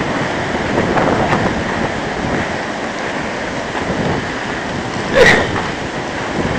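Strong wind buffeting the microphone: a steady rushing noise, with one brief louder sound about five seconds in.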